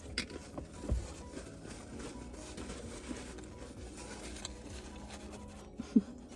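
Faint eating and handling sounds at a meal of fried chicken: soft scattered clicks and rustles, with a light knock about a second in.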